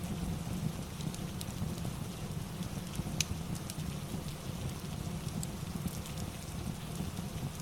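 Steady rain ambience with a low, even rush, mixed with a crackling fireplace that gives a few sharp pops now and then.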